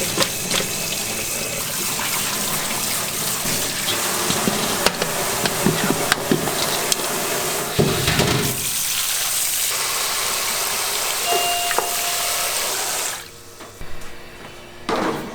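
Water running steadily, as from a kitchen tap, with scattered clinks, shutting off about thirteen seconds in.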